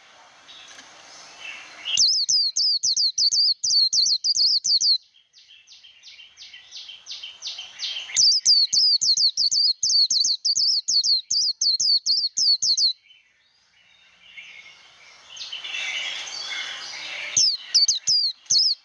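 White-eye (vành khuyên) singing its fast 'líu' contest song: bursts of several seconds of rapid, high, repeated sweeping notes, with softer twittering between the bursts.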